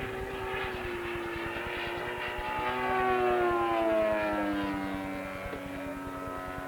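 Propeller engine of a radio-controlled model airplane flying past: its tone swells to its loudest about three to four seconds in and falls steadily in pitch as it goes by.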